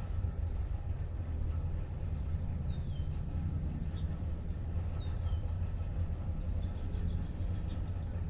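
Small birds giving short high chirps every second or so, including a couple of brief falling calls, over light rain and a steady low rumble.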